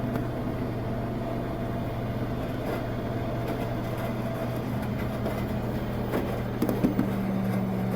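Washing machines running with a steady motor hum. The neighbouring washer is the louder one and masks the nearer machine. A second, slightly higher hum tone joins about seven seconds in.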